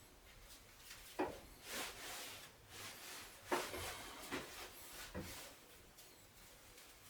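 Faint, scattered knocks and handling sounds, with two sharper knocks about a second and three and a half seconds in, and softer ones between.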